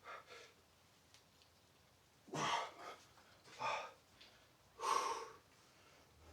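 A man's hard, forceful exhales, four of them: one at the start, then three a little over a second apart. This is heavy breathing from exertion during a calisthenics workout.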